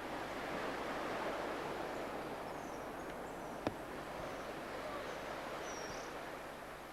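Steady rushing outdoor background with a few short, high bird chirps scattered through it and a single sharp click about halfway.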